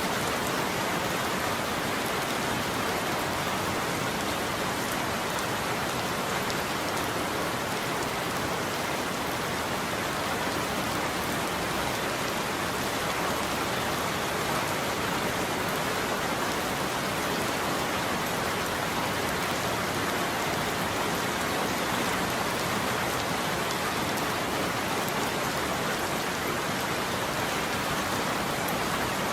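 Steady heavy rain falling on a roof, an even unbroken patter with no thunder.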